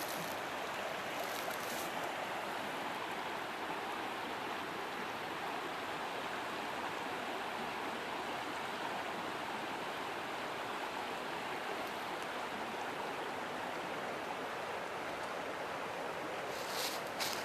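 Steady rush of a river's running water. A couple of short crackles near the end.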